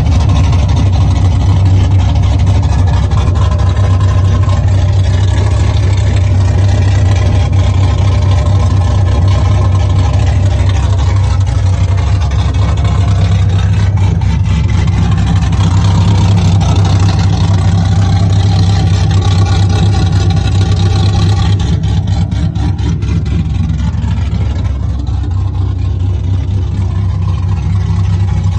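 Supercharged 6.0-litre LS2 V8 of a 2005 Pontiac GTO idling steadily.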